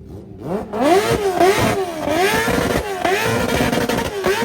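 Car engine revved hard again and again, its pitch climbing and dropping about every three-quarters of a second. It starts about half a second in and turns loud about a second in.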